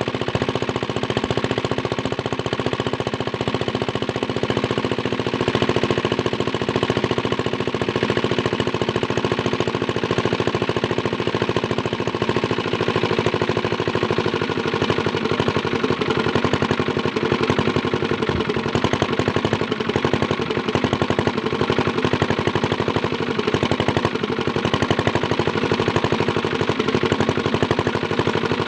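Small diesel engine driving a water pump, running steadily with a fast, even knocking beat.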